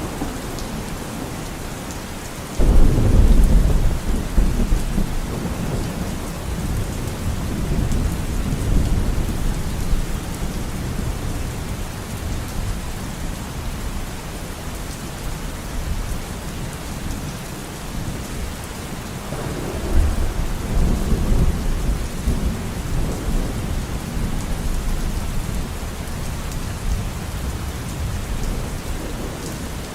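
Steady heavy rain in a thunderstorm. A low roll of thunder breaks in suddenly about two and a half seconds in and rumbles away over several seconds, and a second, gentler roll swells up about two-thirds of the way through.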